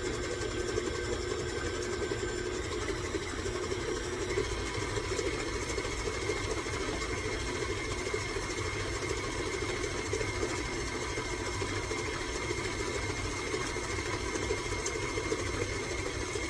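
Electric mixer running steadily on low speed, beating sugars, flax eggs and fat into a creamed cookie dough base.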